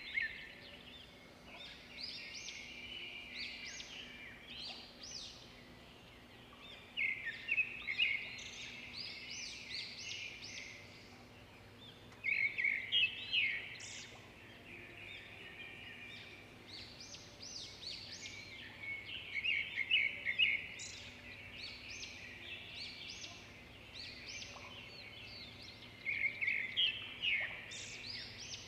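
Songbird singing: a burst of rapid, high chirping notes repeated about every six to seven seconds, with softer scattered chirps in between.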